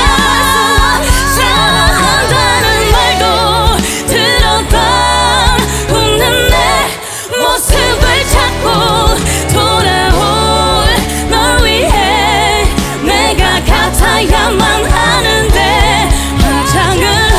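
Several singers in an R&B vocal group sing a slow ballad in harmony, with wide vibrato on sustained notes over a bass-heavy backing track. The backing drops out briefly about seven seconds in, then the voices come back in.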